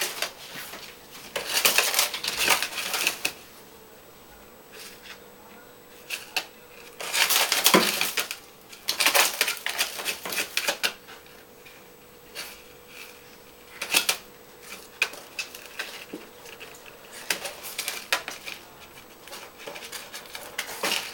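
Granular stone-type cat litter rattling and crunching as a pet scratches and digs in it, in several irregular bursts with short pauses between.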